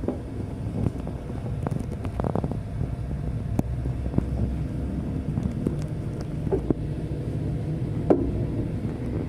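A passenger train carriage running along the line, a steady low rumble with scattered clicks and knocks from the wheels and the carriage.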